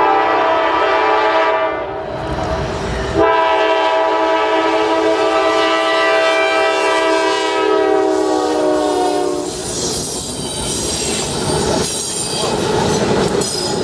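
Locomotive air horn sounding a multi-note chord: a short blast, then a long one of about six seconds whose pitch drifts slightly down as it passes. After it, the rumble and clickety-clack of the train's wheels rolling over the rails, with faint high wheel squeal.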